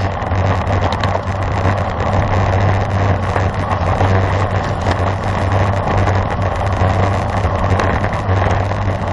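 Steady wind rush and low rumble on the microphone of a camera carried by a cyclist riding at race speed.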